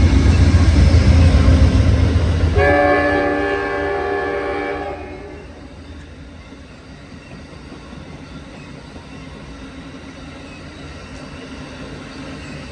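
Amtrak P42 Genesis diesel locomotives passing slowly with a heavy engine rumble. About two and a half seconds in, a multi-note train horn sounds for about two seconds. After it the train's cars roll by with a quieter steady rumble.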